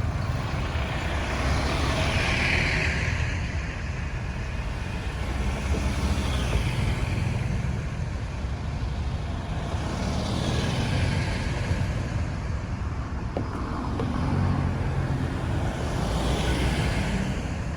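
Road traffic: a steady low engine rumble with several vehicles passing one after another, each swelling in tyre and engine noise and fading away.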